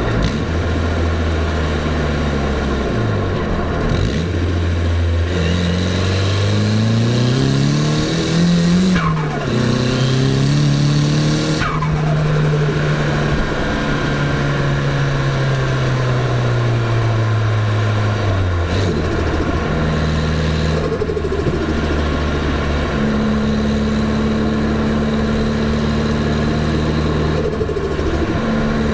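Turbocharged Nissan Silvia S14a's SR20DET four-cylinder engine being driven: it climbs in pitch under acceleration for several seconds, drops sharply at a gear change about nine seconds in, then runs steadily and eases off. It drops again near the two-thirds mark and settles into a steady cruise.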